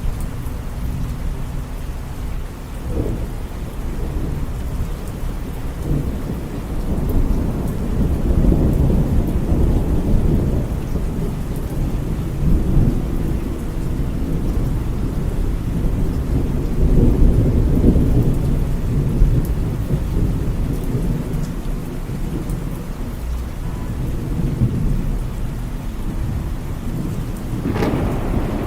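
Thunderstorm: thunder rumbling in long swells over steady rain, with a sharper burst near the end.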